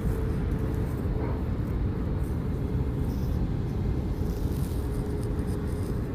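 Steady cabin noise inside an Airbus A321 descending on approach: a low rumble of engines and airflow, with a faint steady hum above it.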